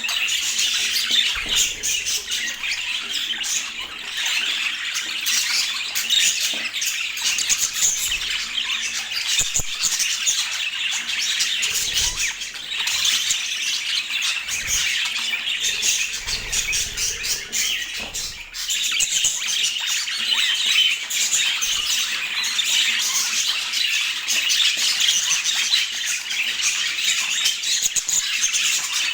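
Budgerigars chattering and warbling continuously, a dense mix of squawks and chirps with a short lull about two-thirds of the way through.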